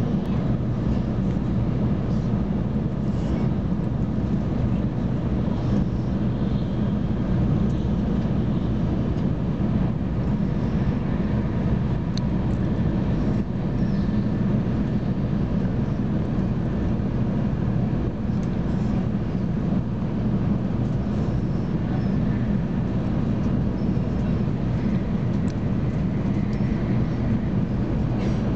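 Shinkansen bullet train running, a steady low rumble that holds even throughout.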